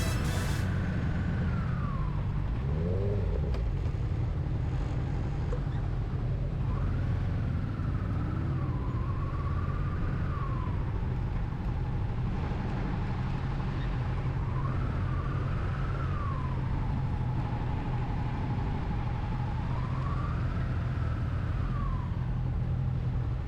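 A siren wailing, its pitch rising and falling slowly every few seconds, over a steady low rumble of vehicles on the move.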